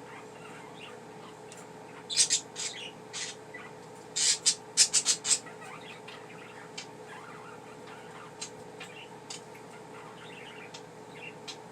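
Pet budgerigars chirping: a few sharp calls about two seconds in, then a quick run of loud chirps around the middle, over a steady low hum.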